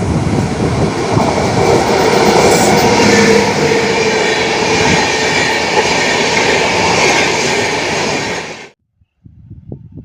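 Express passenger train passing at speed, its wheels clattering over the rail joints in a loud, steady rush. The sound cuts off suddenly near the end, and a faint low rumble follows.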